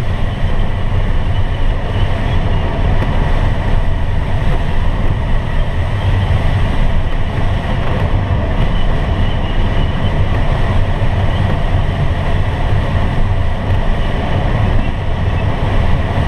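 Steady rush of airflow in a glider cockpit in flight, deepest at the low end.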